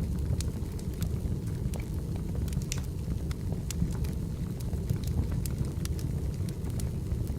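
Wood fire burning: a steady low rumble of flames with frequent sharp crackles and pops from the burning firewood.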